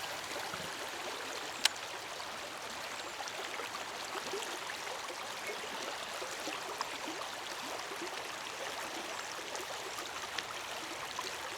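River water flowing and splashing steadily, with one sharp click a little under two seconds in.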